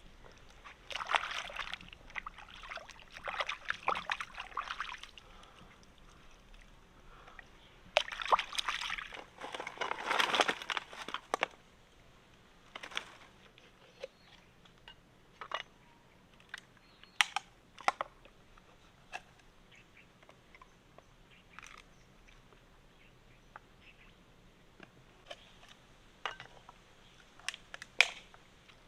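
Water sloshing and splashing in two bursts, then scattered sharp clicks and taps.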